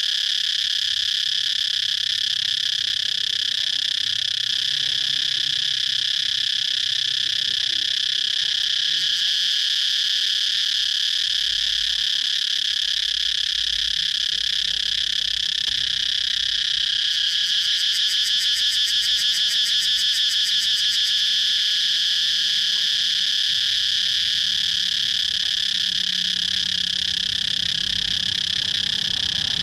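Cicadas buzzing in a continuous, steady high-pitched drone. A little past the middle, a rapidly pulsing call rides over the drone for about four seconds.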